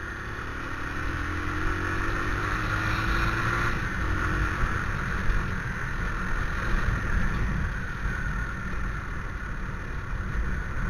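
Motorcycle engine running under way, louder over the first couple of seconds as it pulls, with heavy wind rumble and hiss on the microphone.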